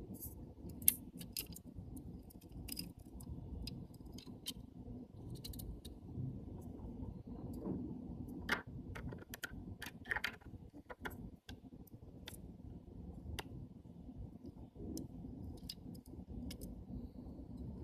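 Small metal lens parts and tools clicking and tapping as a camera lens is taken apart, in scattered light clicks over a low steady hum.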